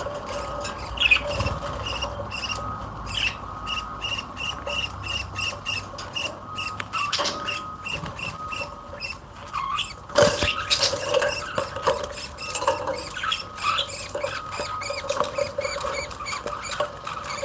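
Small cage birds chirping: a run of short, high peeps at about three a second, with a louder burst of calls about ten seconds in.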